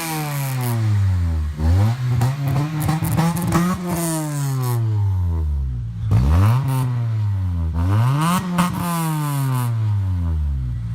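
Car engines revved hard in a rev match, the pitch climbing and dropping back about four or five times, with two engines overlapping at moments.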